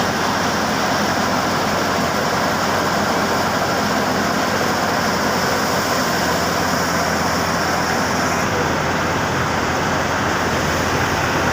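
Tractor-driven wheat thresher running steadily: a loud, even mechanical din with a low engine hum underneath.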